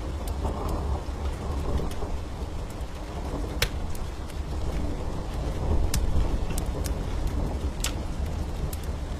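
Wood fire crackling, with a few sharp pops, over a steady rain hiss and a continuous low rumble.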